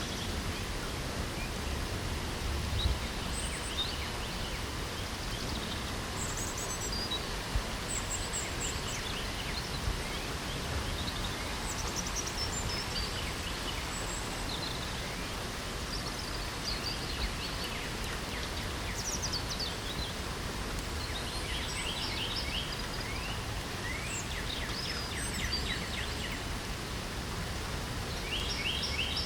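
Steady hiss of light spring rain with songbirds singing short chirps and trills throughout, the birdsong busier in the second half, and a few louder single ticks.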